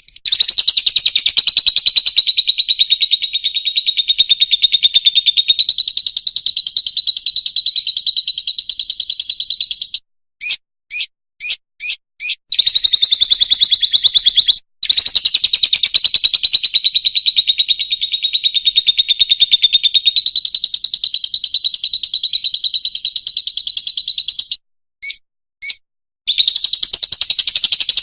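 Fischer's lovebird singing: long, rapid, buzzy trills held at a steady high pitch, broken twice by short runs of separate sharp chirps (five about ten seconds in, three near the end).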